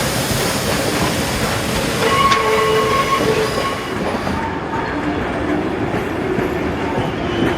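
A train running along the track, a steady rumble and wheel clatter. A few steady tones sound from about two to four seconds in, and a high hiss drops away about four and a half seconds in.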